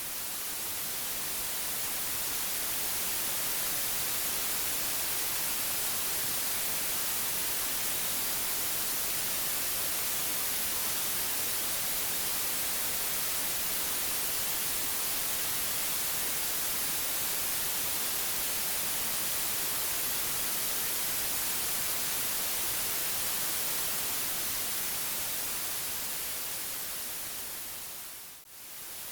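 Steady white noise: an even, hissing rush across the whole range, strongest in the high treble. It swells up over the first few seconds, then dips briefly near the end and returns, like the seam of a loop.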